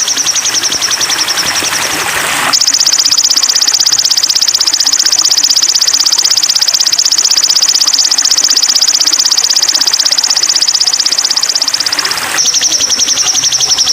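Sogon songbird singing a long, rapid, high-pitched trill of evenly repeated notes, louder from about two and a half seconds in until near the end, in a recording used to train caged sogon birds to sing.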